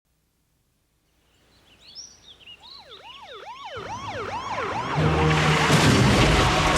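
Police sirens yelping, several at once, fading up out of silence and growing louder. A car engine comes in under them and is running hard and loud from about five seconds in.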